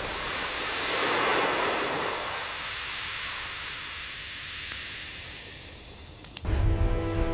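A steady hiss of broad noise, strongest in the high range, slowly fading over several seconds; music comes in sharply about six and a half seconds in.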